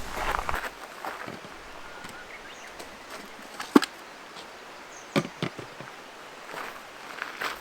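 A few sharp knocks and clicks, one at a time: a strong one just under four seconds in, a quick pair a little after five seconds, and a few softer ones near the end, over a faint steady background.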